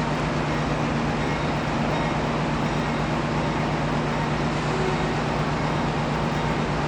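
NR-class diesel-electric locomotive's engine running at idle: a steady low hum.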